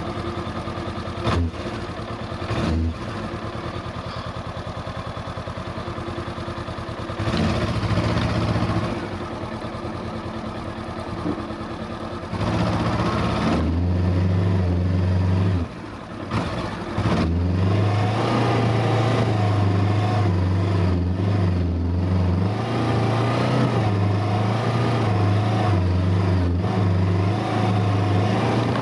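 Honda CB500X's parallel-twin engine running, idling with a few short throttle blips at first, then held at higher revs under throttle from about halfway through, with one brief drop in revs soon after.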